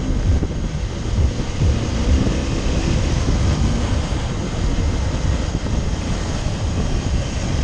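Wind buffeting the microphone over a steady, loud low rumble of travel noise.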